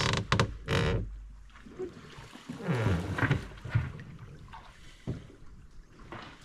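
Water splashing and trickling around a canoe in a shallow stream, loudest in the first second, with a few short knocks.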